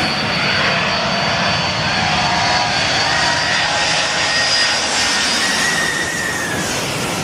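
Airplane passing low overhead: loud, steady engine roar with a high whine whose pitch drifts slowly downward near the end.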